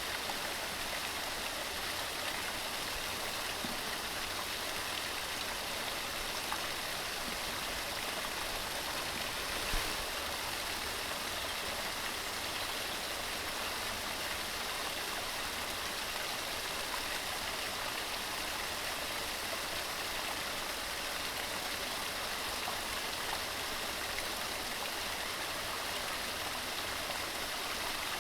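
Waterfall splashing over rocks, a steady, even rush of water. One brief tap about ten seconds in.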